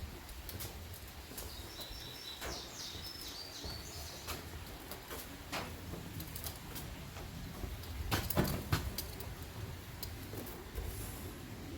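A bird sings a short phrase of high chirps a couple of seconds in, over a quiet outdoor background. Scattered light clicks run through it, with a few louder knocks about eight seconds in.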